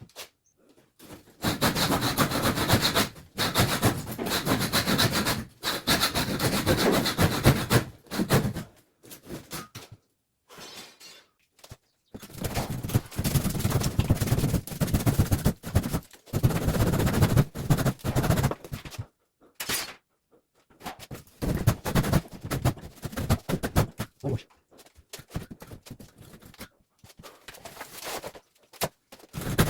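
Bouts of rough scraping and rubbing mixed with rapid knocks, each lasting a few seconds with short pauses between, typical of hand work on a building's materials.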